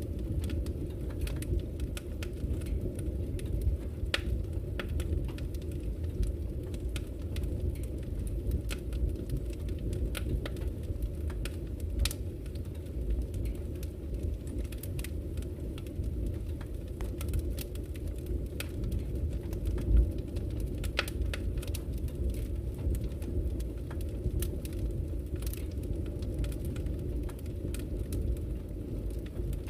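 Wood fire burning in a fireplace: a steady low rumble of flames with irregular crackles and pops from the burning logs, and one louder pop about twenty seconds in.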